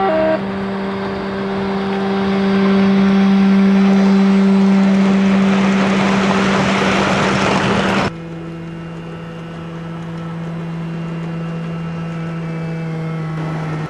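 Sound module of a G-scale Taurus electric locomotive model playing its running sound through the model's loudspeaker: a steady electric hum with a hiss that swells and then cuts off abruptly about eight seconds in, after which the hum continues at a lower pitch.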